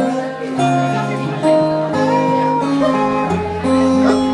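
Acoustic guitar playing an instrumental passage of a song, with sustained notes that slide in pitch between them.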